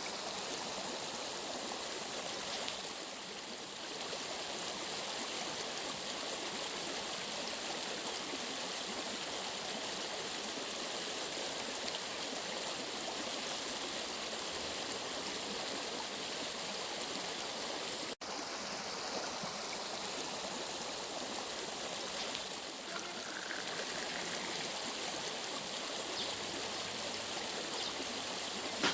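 Steady rushing of a flowing stream, with a momentary dropout about eighteen seconds in.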